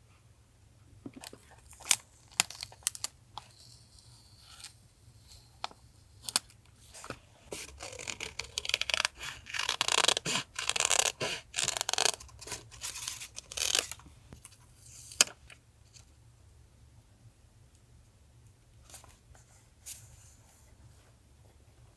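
Paper being handled for a collage: a few light taps and rustles, then several seconds of dense tearing and crinkling of paper, ending with a sharp click.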